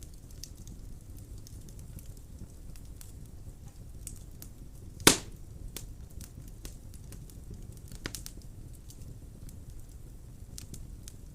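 Wood fire burning in a fireplace: a low steady rumble of flames with scattered small crackles, and one loud sharp pop about five seconds in, a smaller pop near eight seconds.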